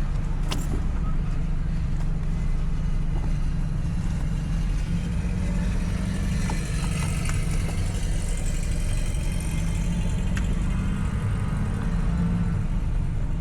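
Road and engine noise inside the cabin of a moving car: a steady low rumble, with tyre hiss swelling up through the middle. A single sharp click comes about half a second in.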